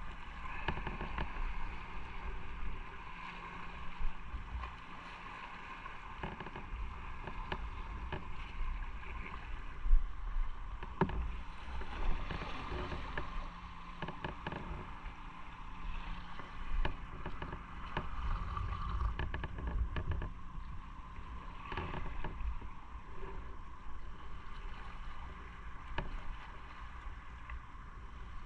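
Motorcycle running on the road: steady engine and road noise with scattered small knocks.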